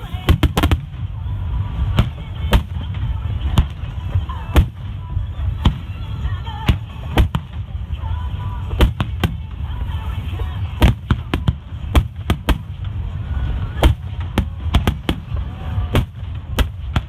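Aerial firework shells bursting in a dense barrage: many sharp bangs at irregular intervals, sometimes several in quick succession, over a continuous low rumble.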